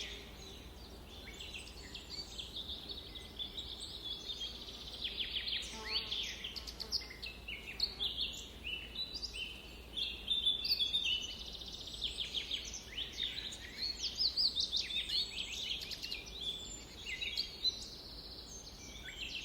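Several songbirds chirping and singing at once in a forest, with many short overlapping chirps and trills.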